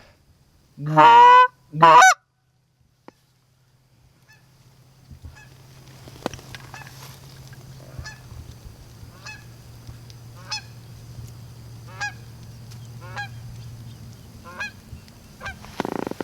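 Canada goose honking: two very loud honks about a second in, then after a short pause a run of fainter honks about once a second. A low steady hum lies under the later honks.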